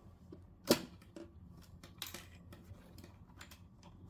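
Light scattered clicks and taps of screws and a screwdriver being handled on a television's casing, with one sharper click a little under a second in.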